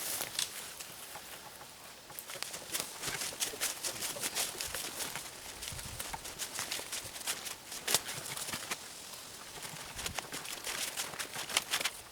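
Footsteps crunching and crackling through dry leaf litter and brush on the forest floor, an irregular run of short steps and twig snaps.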